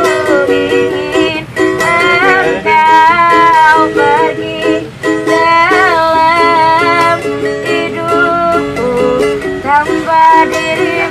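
A busker singing a slow melody with wavering held notes, accompanied by a strummed ukulele.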